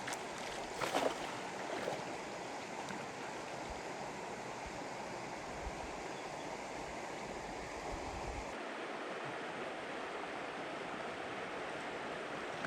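Steady rush of flowing water, with a short louder splash about a second in and a smaller one near two seconds.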